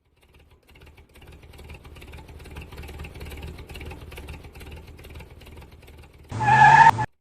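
A small motor, likely the electric motor driving a toy-scale DIY tractor or mini machine, running steadily with a low buzzing hum. Near the end, a loud, short pitched tone with several layered pitches cuts in for under a second.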